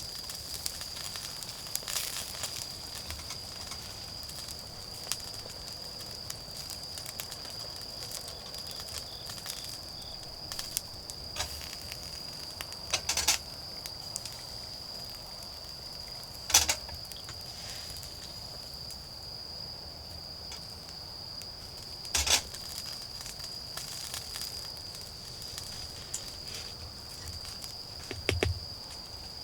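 Wood campfire crackling, with a few sharp pops, the loudest about two-thirds and three-quarters of the way through, over the steady high trill of autumn insects.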